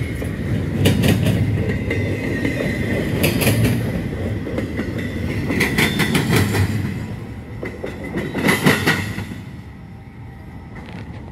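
Double-stack intermodal freight train's well cars rolling past, steel wheels clacking over rail joints in clusters every couple of seconds over a steady rumble. The last car goes by and the sound drops away about nine seconds in as the train recedes.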